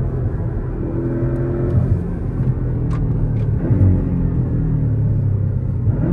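Porsche 718 Cayman GTS's naturally aspirated flat-six running under way, steady, with its pitch shifting about two-thirds of the way through and again near the end. Two short clicks about three seconds in.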